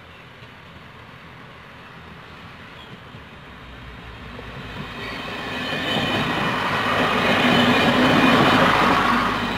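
HŽPP diesel multiple unit approaching and passing close by: engine and wheel noise grows louder from about four seconds in, peaking as the cars roll past near the end.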